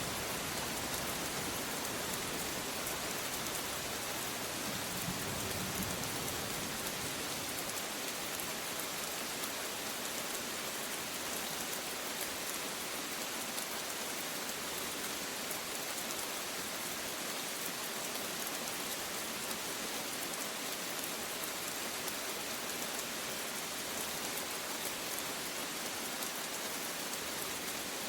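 Steady rain falling in an even hiss, with a faint low rumble of distant thunder about five seconds in.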